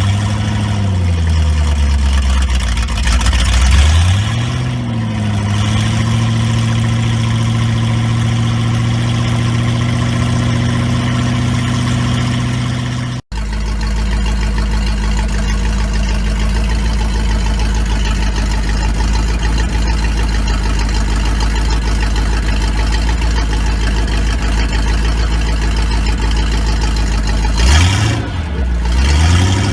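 Mercury Marine 5.7-litre V8 boat engine running on its first start after 20 years of sitting. Its revs dip and rise in the first few seconds, then it settles to a steady idle, with another brief rise and fall in revs near the end.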